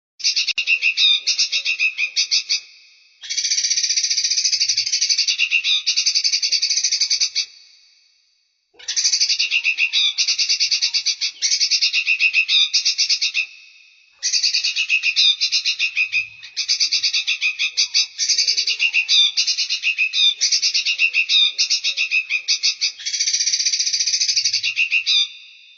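Songbird calling in loud, rapid, buzzy trills. The trills come in bouts of a few seconds each with brief pauses between them, the longest running through the second half.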